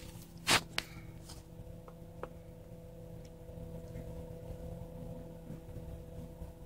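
Car engine idling, heard from inside the cabin as a steady low hum, with one sharp click or knock about half a second in and a few faint ticks.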